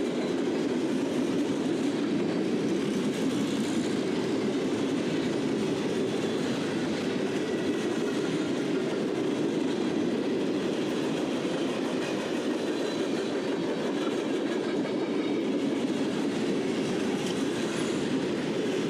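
Norfolk Southern trash train's freight cars rolling past on the rails, a steady wheel-on-rail noise.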